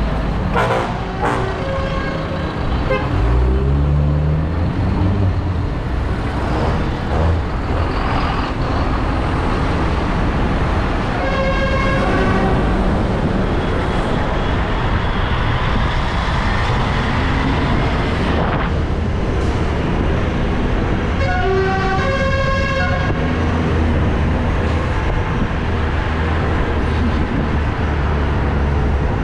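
Tractor engines running along a road, one revving up a few seconds in, with a horn sounding twice, at about twelve and twenty-two seconds in.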